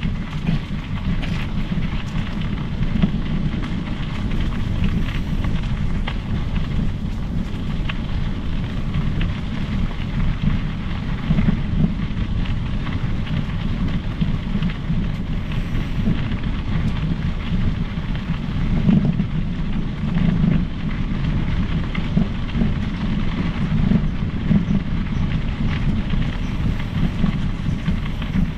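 Steady low wind rumble on the microphone with tyre and ride noise from a mountain bike rolling along a trail, with small uneven crackles throughout.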